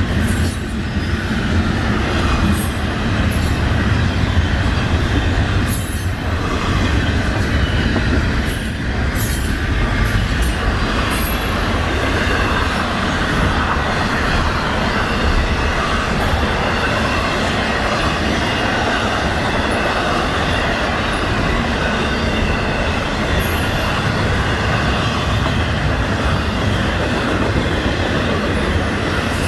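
Florida East Coast Railway train rolling by, a steady, loud rumble of wheels on rail with a faint, high, steady squeal from the wheels. Scattered sharp high clicks come through, most of them in the first dozen seconds.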